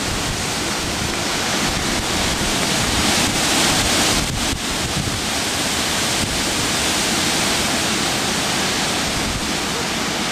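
Strong gusting wind from Hurricane Ike rushing and buffeting the microphone with a low rumble. It swells to its strongest about three to four seconds in.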